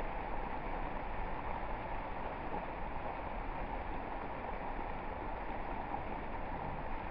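Water fountain splashing, a steady even rush of falling water.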